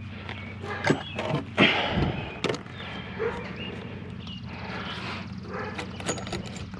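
Pliers clicking, knocking and scraping on metal fittings as a discarded sink's plumbing is worked loose, with a louder rattle about two seconds in, over a steady low hum.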